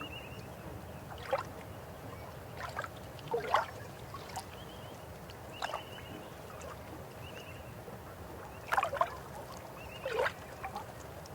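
River water flowing steadily, with irregular splashing gurgles every second or two. Short high chirps come in now and then.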